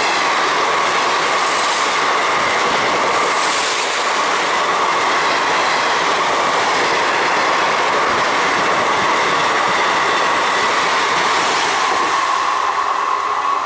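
Passenger train passing through at speed on the main line: a loud, steady rush of wheels on rail, with a ringing tone from the wheels.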